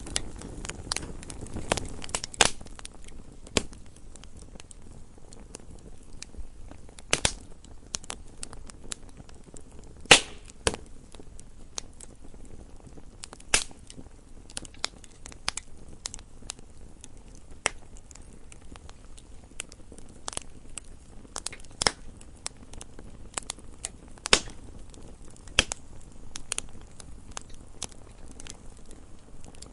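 Wood fire burning in a fireplace: a low steady hiss with irregular sharp crackles and pops, a few of them much louder than the rest.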